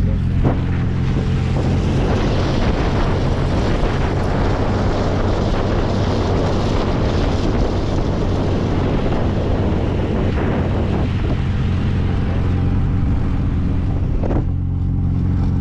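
The MG Midget's 1275cc engine running at a steady drone in the open-top car, with wind rushing over the microphone. The wind noise swells about a second and a half in and eases off near the end.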